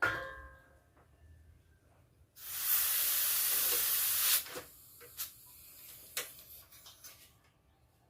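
A metallic clang that rings briefly, then pressurised gas jetting out with a loud, steady hiss for about two seconds before cutting off suddenly, followed by a few light clicks.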